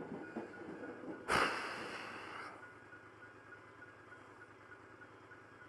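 A man's long, heavy sigh about a second in, starting suddenly and fading away over about a second, then only a faint steady background hum.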